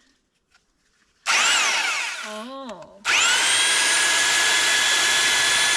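Electric concrete drill triggered briefly, its motor whine rising and then falling as it spins down. About three seconds in it is started again and held at a steady full speed.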